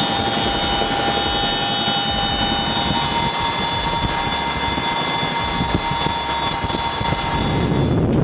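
Boeing CH-47 Chinook tandem-rotor helicopter in flight, lifting a load: a steady high turbine whine at several pitches over the pulsing beat of its rotors.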